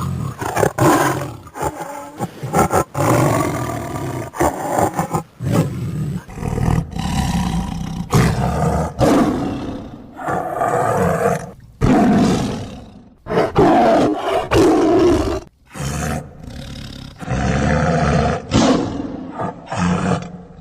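Bengal tiger roaring: a long run of loud, rough roars, each lasting a second or two, with short breaks between them.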